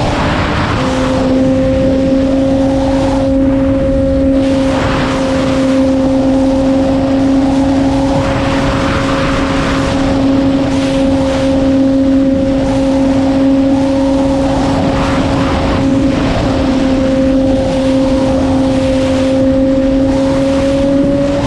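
Sport motorcycle engine held at a nearly steady high pitch at speed. The note drops slightly about a second in and climbs a little near the end, with wind rushing over the microphone in gusts.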